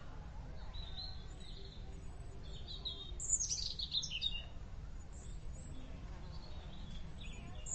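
Small birds chirping: short high chirps, with a cluster of quick falling notes about three seconds in, over a steady low background noise.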